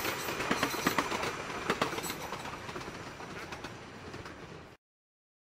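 CRH380A high-speed electric train passing, its wheels clicking over rail joints. The sound fades gradually and cuts off suddenly near the end.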